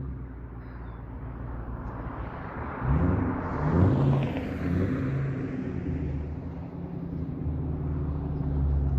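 2003 Ford Mustang Mach 1's 4.6-litre V8 running through a Carven aftermarket exhaust. About three seconds in it revs up through a few quick rising sweeps and gets louder, then settles back to a steady low note.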